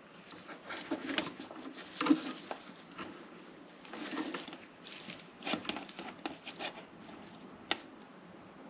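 Irregular clicks, taps and rustling of parts being handled and fitted: the oil breather box and its hose being positioned on the engine, with one sharp click near the end.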